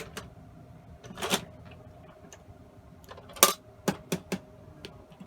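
Plastic clicks and knocks from a toy toilet game being handled, scattered irregularly, with the loudest knock about three and a half seconds in, followed by three quick clicks.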